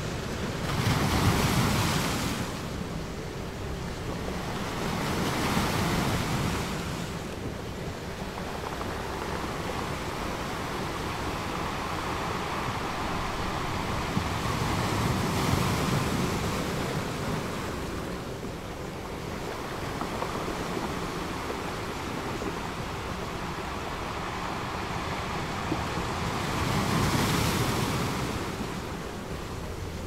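Ocean surf: waves wash in and draw back, swelling and fading slowly. The louder surges come about a second in, around six seconds, around fifteen seconds and near the end.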